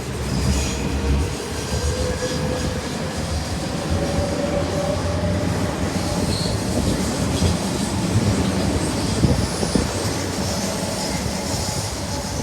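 A train running past on the rails: a steady rumble of wheels on track with faint high wheel squeal.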